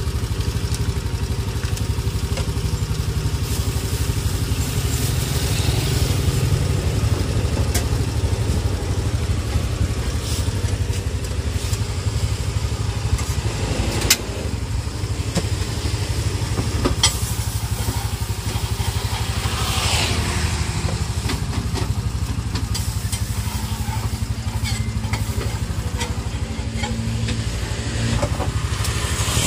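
Steady motorcycle engine noise from roadside traffic, with a few short clicks partway through.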